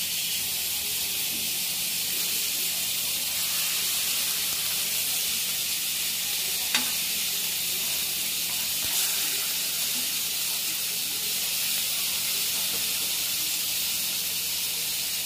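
Elephant foot yam slices coated in masala shallow-frying in oil, a steady sizzle, with a single sharp click about seven seconds in.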